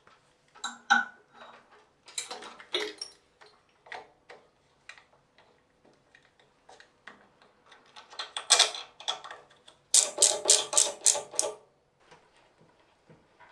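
Metal tools and parts clicking and clinking in hand work, with irregular knocks, then a quick run of about eight sharp, even strokes, about five a second, near the end.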